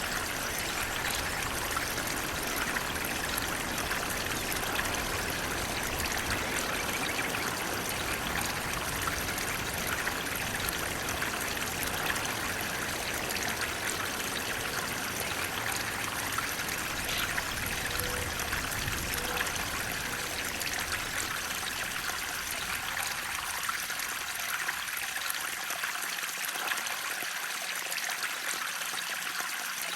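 Water flowing steadily, a continuous even rush with trickling, strongest in the upper-middle range. The deep low rumble thins out about three-quarters of the way through.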